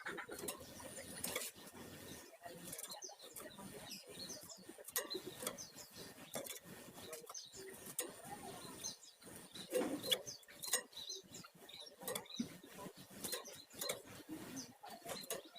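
A flamboyan (Javan fulvetta) singing: a run of short high chirps and whistled notes, repeated all the way through.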